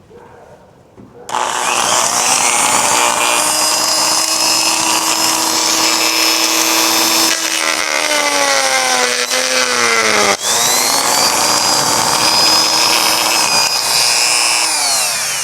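Small high-speed rotary tool grinding, starting about a second in with a steady high whine. About halfway through its pitch sinks as the bit bogs under load, it cuts out for a moment, then spins back up and runs on before winding down near the end.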